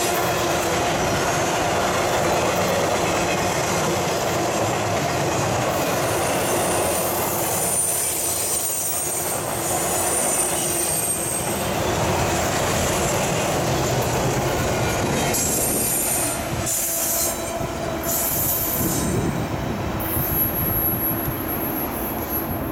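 Intermodal freight cars, container well cars and trailer flatcars, rolling past on steel rails with a steady rumble and clatter. High wheel squeals sound from about a quarter of the way in to about halfway, and again near the end.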